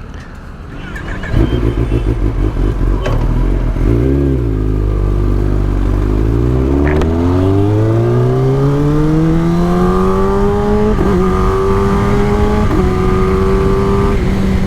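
Kawasaki ZX-10R inline-four engine pulling away loudly about a second in, with a quick blip of revs. It then climbs steadily in pitch as the bike accelerates and holds a steady note, broken twice near the end.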